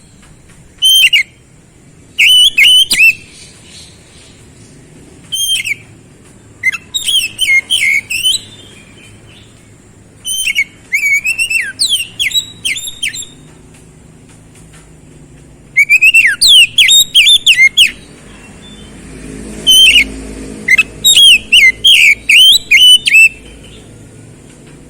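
Oriental magpie-robin (kacer) singing: short loud phrases of quick, sliding whistled notes, repeated about eight times with pauses of a second or two between them.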